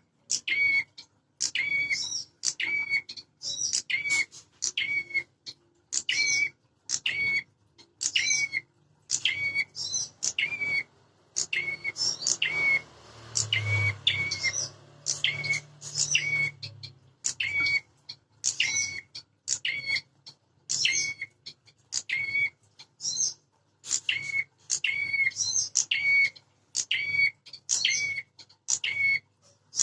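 Prinias (prenjak) calling in a rapid, agitated series of short, sharp chirps, about one and a half a second, the excited territorial calling used to provoke caged birds. A faint low rumble sounds briefly around the middle.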